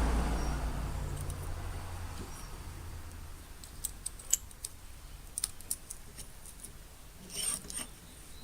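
Scattered light clicks and ticks of metal parts being handled during vise reassembly, with a short scrape near the end. A low rumble fades out over the first few seconds.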